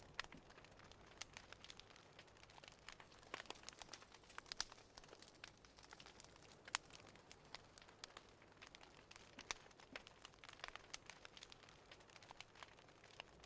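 Fireplace crackling: soft, irregular pops and snaps of burning wood over a faint hiss.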